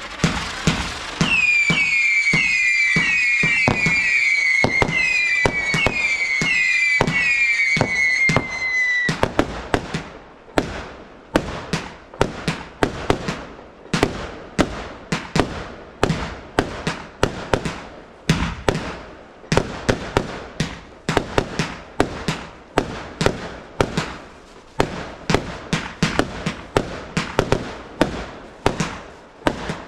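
Garden fireworks going off. For the first eight seconds or so, a string of whistling fireworks, each a falling whistle, overlap with crackling; then comes a long run of sharp bangs in quick succession, several a second.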